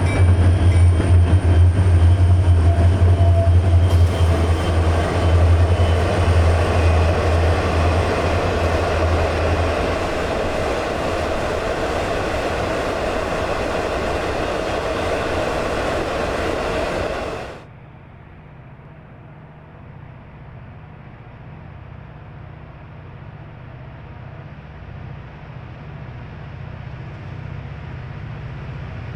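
EMD diesel freight locomotives passing with the engines' heavy low drone, which fades after about ten seconds into the steady rolling noise of the train's cars. About seventeen seconds in the sound cuts off abruptly to a much quieter low rumble.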